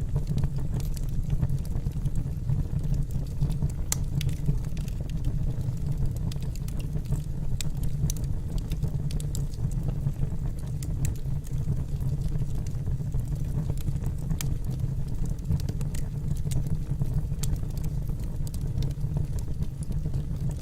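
Wood fire burning in a fireplace: logs crackling with scattered sharp pops over a steady low rumble.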